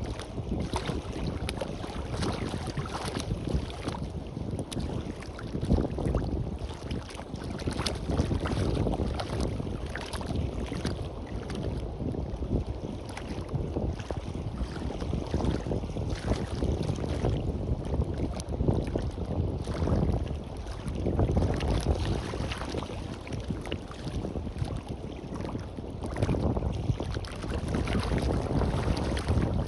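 Sea waves washing on a beach, with wind rumbling on the microphone in uneven gusts.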